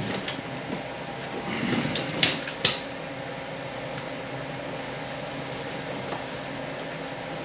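A few sharp metal clinks in the first three seconds as a hand wrench turns the front axle nut to line up its cotter-pin hole, over a steady mechanical hum.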